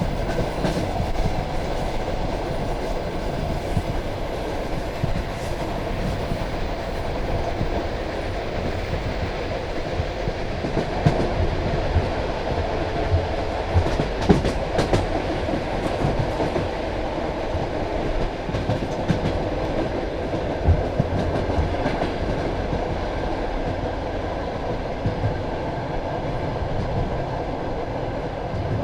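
Passenger train carriage running at speed, heard from its window: a steady rumble of wheels on the track with scattered clicks and a few louder knocks as the wheels pass over rail joints.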